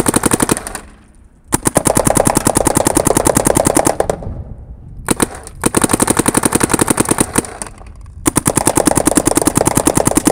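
Electronic paintball marker firing rapid strings of shots, four strings with short pauses between them.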